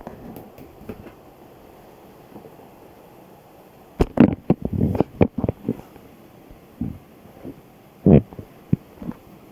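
A balloon's rubber being handled: a cluster of short squeaks and thumps about four seconds in, and another near the end, with no pop.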